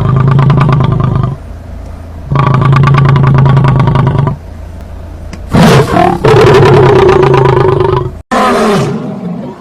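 Big cat roaring: two long, grating calls of steady pitch, then a louder third roar. Near the end it cuts suddenly to a different call that slides up and down in pitch.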